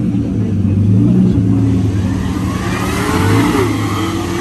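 A car engine running nearby and being revved, its pitch rising and dropping a couple of times.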